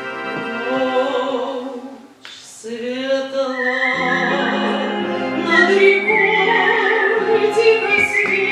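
Live performance of a romance: a high whistled melody with vibrato alongside a female singing voice, over sustained accompaniment chords. Near silence for a moment about two seconds in, between phrases.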